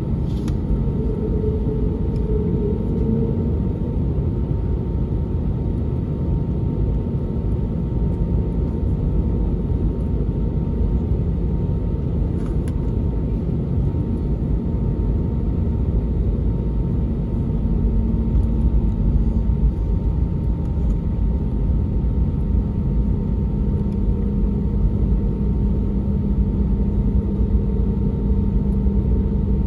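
Cabin noise inside an Airbus A320neo with CFM LEAP-1A engines: a steady rumble of the engines and airflow, with a faint low hum underneath.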